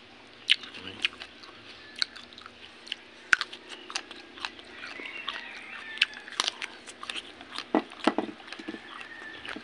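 A person chewing and biting raw vegetables close to the microphone: irregular crunches and mouth clicks, several a second.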